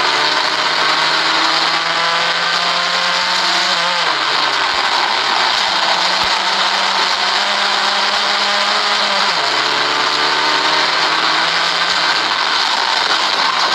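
Vauxhall Corsa 1200 Junior rally car's four-cylinder engine running hard at full speed, heard inside the cabin with steady road and tyre noise. The engine note holds steady for seconds at a time, drops in pitch about four seconds in, again about nine seconds in and near the end, then climbs back.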